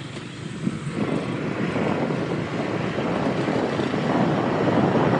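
Motorcycle running on the move, heard from the bike itself, growing steadily louder through the seconds.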